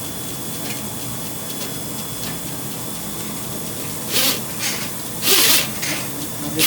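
Electric drain-cleaning machine running steadily with its wire cable in the drain line, with a faint high whine. Several short hissing bursts come about four and five seconds in, the longest and loudest near five and a half seconds.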